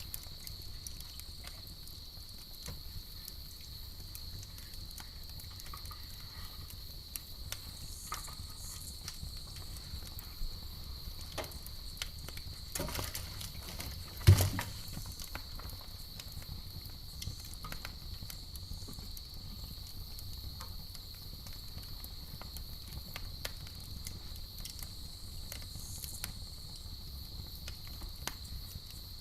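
Campfire crackling with scattered sharp pops, one much louder pop with a thump about halfway through. A steady high chirring of crickets runs underneath.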